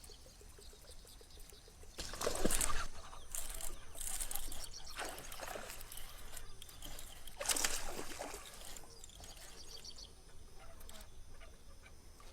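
Water splashing in several short bursts, the loudest about two seconds in and near the middle, with trickling and dripping between them.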